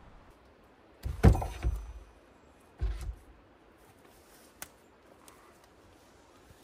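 Heavy knocks and thuds: a loud cluster of several blows about a second in, a single shorter thud about two seconds later, then a faint sharp click.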